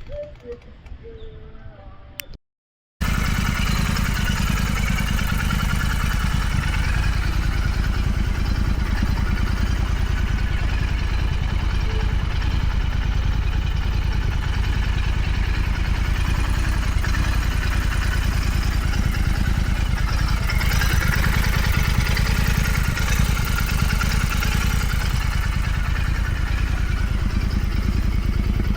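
Royal Enfield Continental GT 650's 648 cc parallel-twin engine running steadily and loudly, starting abruptly about three seconds in after a brief quieter stretch and a moment of silence.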